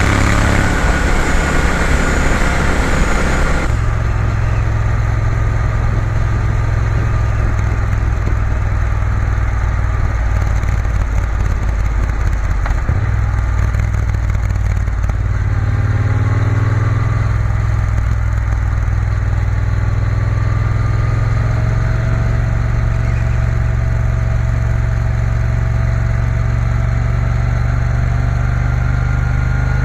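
Triumph Bonneville T120's parallel-twin engine running on the road, heard with wind and road hiss. The hiss drops sharply about four seconds in, the engine note shifts around the middle, and it then rises slowly as the bike picks up speed.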